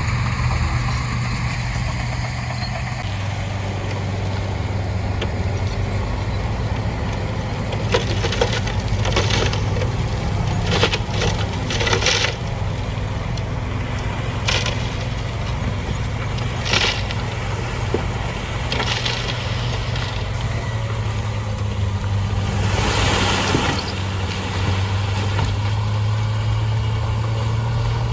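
Heavy diesel engine of earthmoving equipment running steadily with a deep drone, overlaid by several short bursts of noise in the middle and a longer one a few seconds before the end, consistent with gravel and stone being pushed or dumped.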